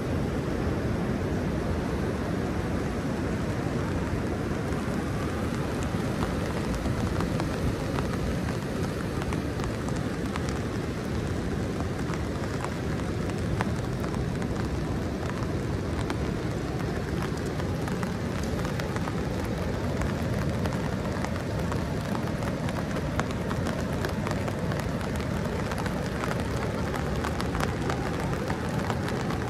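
Rain hitting an umbrella overhead: a dense, steady crackling of drop hits, over a low steady rush.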